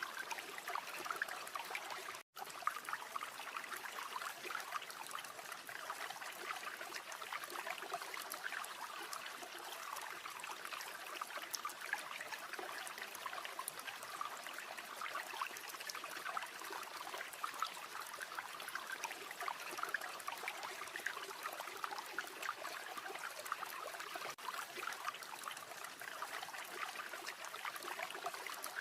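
River or stream water flowing and burbling steadily, with one momentary dropout to silence about two seconds in.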